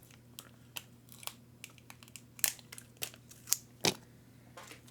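Plastic parts bag crinkling and sticky tape being torn and pressed on as the bag is taped shut, a run of sharp irregular crackles with a few louder snaps about two and a half and three and a half seconds in.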